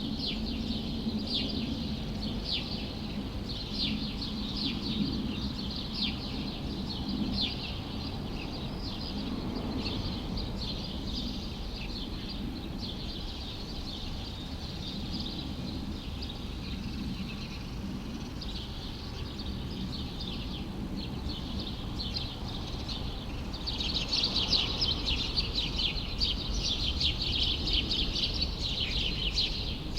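Many small birds chirping and twittering together in a dense, continuous chorus over a steady low city rumble. The chirping grows louder about three-quarters of the way through.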